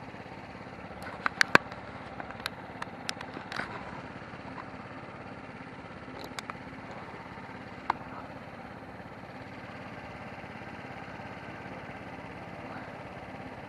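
Steady wind and road noise from a moving electric scooter, with a quick series of sharp clicks about a second in and a few more single clicks later on.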